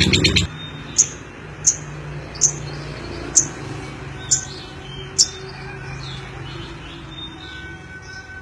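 Lovebird giving six short, sharp, high chirps spaced about a second apart. Before them, a louder, rapidly pulsing sound cuts off abruptly about half a second in.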